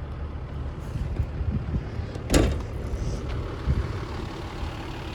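A single sharp thump about two and a half seconds in, over a steady low rumble, with a few smaller knocks around it.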